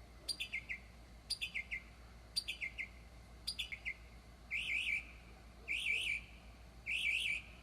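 A bird singing in the dark. It repeats a phrase of a sharp high note followed by a few quick falling notes about once a second. About halfway through it switches to a different phrase of rapid up-and-down warbled notes, repeated at the same pace.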